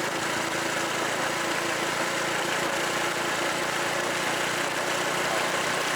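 Honda Super Cub's single-cylinder four-stroke engine running steadily under way, under steady wind and road noise.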